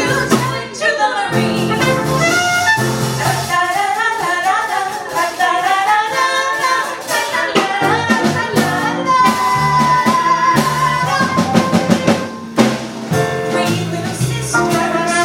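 Live swing music: a jazz band with drum kit, saxophone and brass playing, with singing.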